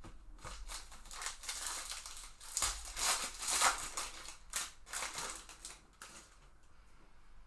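Crinkling and rustling of a trading card pack's foil wrapper being handled, loudest in the middle and dying away about six seconds in.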